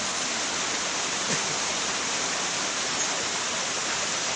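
Steady heavy rain, a constant even hiss with no breaks.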